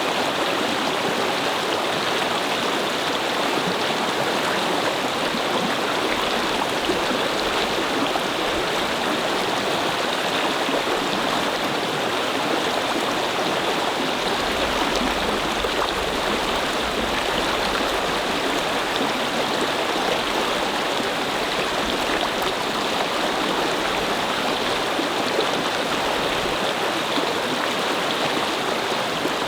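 Babbling brook: a steady, unbroken rush of flowing water.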